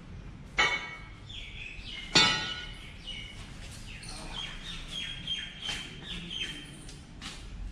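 Birds chirping: a string of short, high repeated notes. Two loud, harsh sharp sounds stand out, about half a second and two seconds in.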